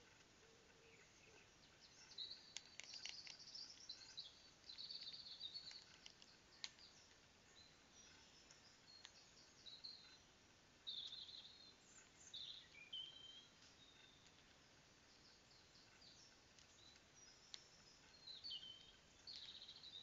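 Songbirds singing faintly: scattered short chirps and trills, coming in clusters a few seconds apart over a faint hiss.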